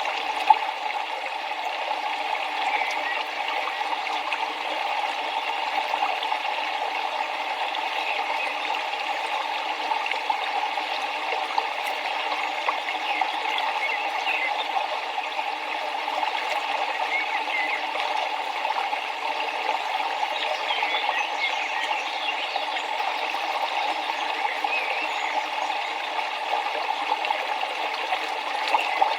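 River water flowing and splashing, a steady, even rush.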